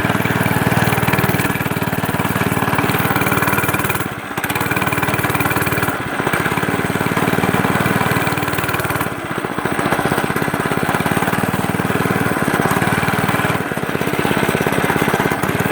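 Small dirt bike engine running under throttle as the bike is ridden, easing off briefly about four times.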